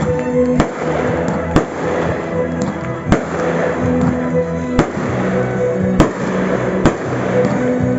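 Fireworks going off in a daytime display, about six sharp bangs spaced a second or so apart, the loudest about six seconds in. Music with long held notes plays underneath throughout.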